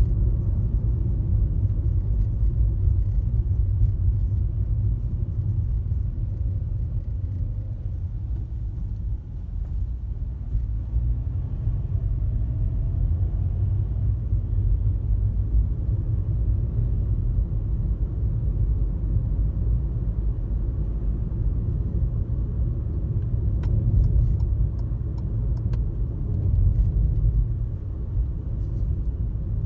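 A car driving on a highway, giving a steady low rumble of road and tyre noise that swells and eases slightly.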